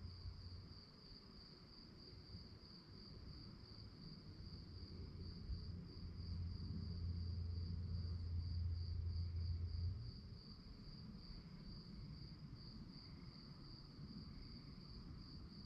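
Crickets chirping in a steady, evenly pulsing high trill. A low rumble swells up about five seconds in and stops abruptly about ten seconds in.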